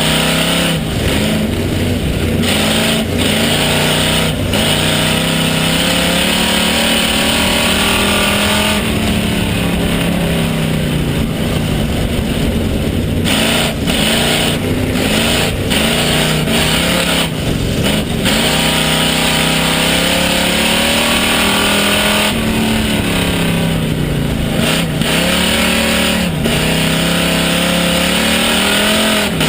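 Pure stock race car engine heard from inside the car under racing load. The revs climb on the straights and drop off repeatedly as the throttle is lifted and reapplied for the corners.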